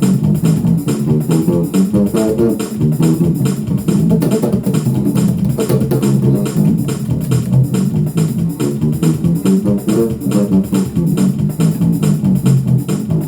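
Electric bass guitar playing a fast gospel shout groove of quick low notes over a steady drum beat.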